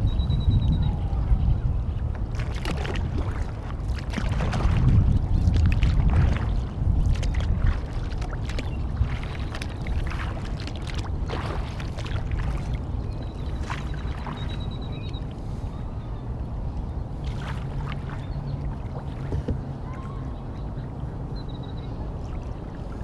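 Kayak paddle strokes: the blades dip and splash in the water about every two seconds. Wind buffets the microphone, strongest in the first few seconds.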